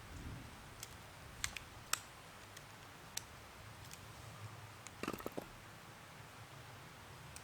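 A few faint, sharp clicks and taps. They are spread out at first, then come as a short cluster about five seconds in.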